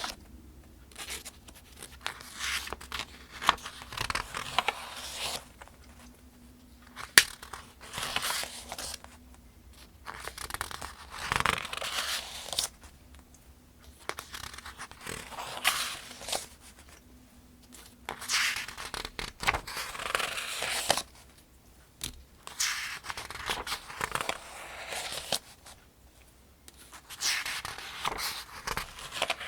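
Pages of the 2025 Farmers' Almanac being turned one at a time, a papery swish and rustle about every two to three seconds, with a sharp paper snap about seven seconds in.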